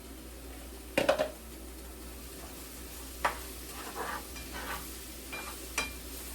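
Portabella mushrooms frying in a pan with garlic, a faint steady sizzle under a utensil stirring them, with a loud clatter against the pan about a second in and several shorter knocks and scrapes later.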